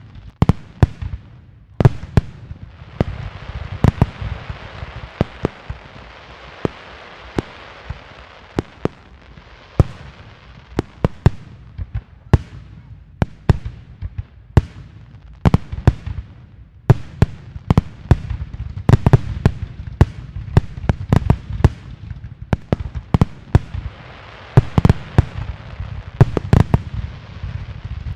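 Aerial firework shells bursting in a display, dozens of sharp bangs through the whole stretch, often several a second, with a continuous crackle and rumble between them.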